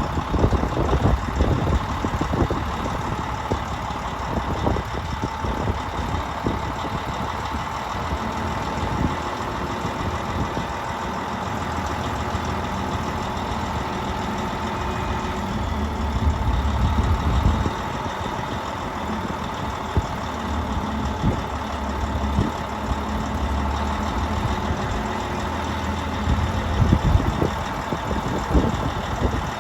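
Diesel engines of a road paver and a hook-lift truck running steadily, with a constant whine over them and scattered knocks and clanks as the paver is loaded onto the truck. The engine note swells a few times, around the middle and near the end.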